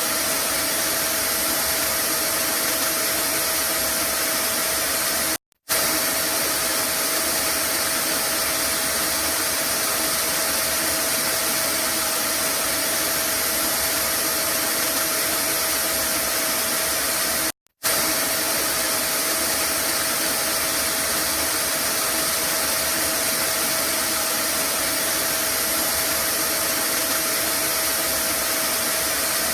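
Vacuum cleaner running steadily: a continuous whooshing hiss with a faint steady hum in it. The sound cuts out to silence for a split second twice, about twelve seconds apart.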